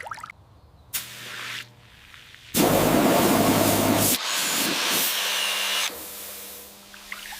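Spraying hiss in several separate bursts of different lengths, the loudest starting about two and a half seconds in and lasting over a second, over a faint steady hum.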